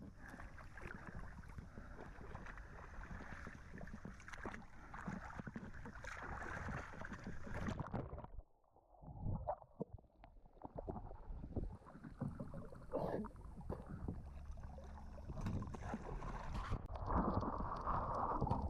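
A boat's engine droning as heard underwater, with a steady rush of water noise and small knocks; the sound drops away sharply for a moment about eight seconds in, then returns and grows louder near the end.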